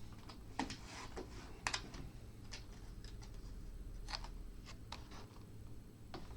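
Scattered light ticks and rustles of paper and cardboard packaging being handled, about one or two small clicks a second over a low steady hum.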